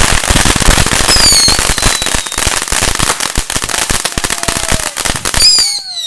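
Firecrackers going off in a rapid, dense crackle of pops that thins out near the end. A short high whistle falls in pitch about a second in, and another near the end.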